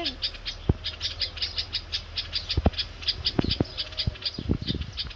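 Rapid, high-pitched bird chirping, about eight to ten short chirps a second, with a few dull knocks beneath it.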